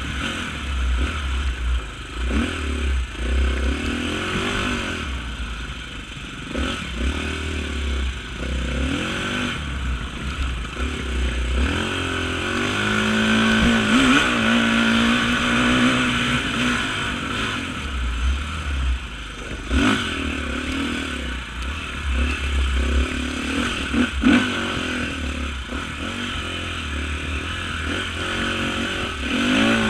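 Off-road motorcycle engine revving up and falling back again and again as it is ridden, with a few sharp knocks.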